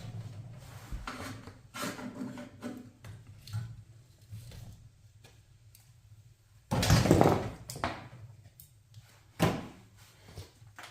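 Scattered knocks and thuds, with a louder clatter lasting about a second around seven seconds in and a sharp knock about two seconds later.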